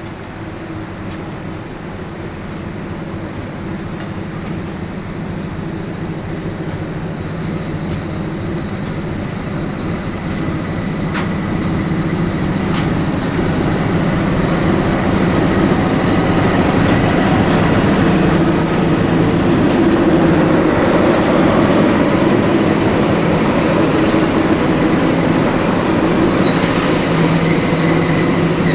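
A train drawing near on the rails: a steady rumble with a low engine or motor hum that grows louder over the first half, then stays loud. A couple of sharp clicks come from the wheels partway through.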